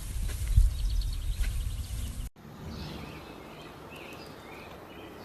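Low rumbling noise with a few faint high chirps, then, after a sudden cut about two seconds in, small birds chirping in short repeated calls over a steady background hiss.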